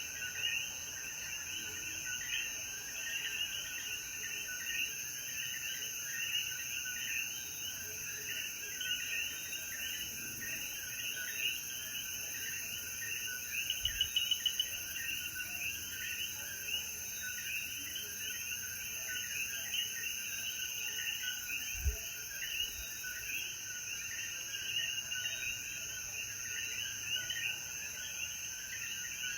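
Dense chorus of common coquí frogs, many short overlapping calls repeating without pause, over a steady high insect drone. Two soft low thumps are heard partway through.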